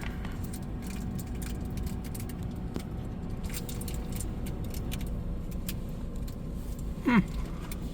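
Steady low rumble heard from inside a car sitting in an automatic tunnel car wash, with scattered light clicks and ticks throughout.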